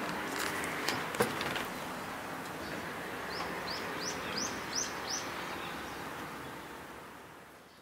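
Outdoor background hiss with a small bird giving a quick run of about six short, high chirps near the middle; a couple of light knocks about a second in.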